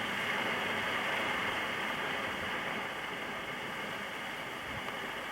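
Steady rushing wind noise from a breezy, gusty wind, easing slightly about halfway through; no tonal hum from the turbine.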